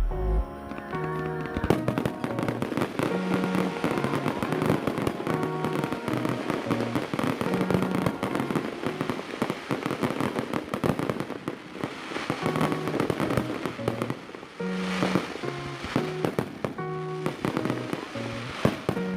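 Fireworks crackling in a dense, rapid run of small pops, starting about two seconds in and thinning out near the end, over music with sustained notes.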